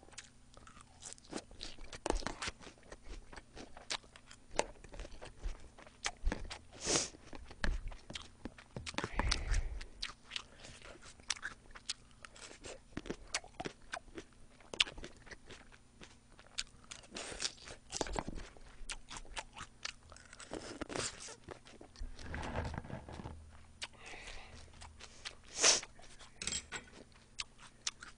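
Close-miked chewing and crunching of fresh salad leaves, with many short crisp crunches and small clicks spread through and a few louder bites.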